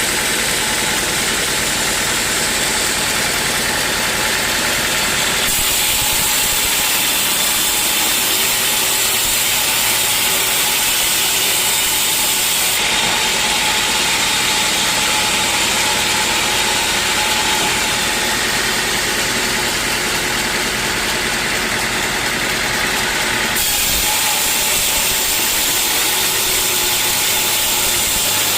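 Sawmill machinery running steadily with a constant engine drone. A higher hiss grows stronger for long stretches, a few seconds in and again near the end, and then eases.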